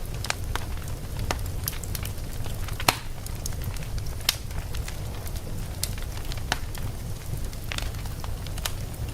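Burning logs crackling in a fireplace: irregular sharp pops and snaps over a low, steady rumble of the fire. The loudest pop comes about three seconds in.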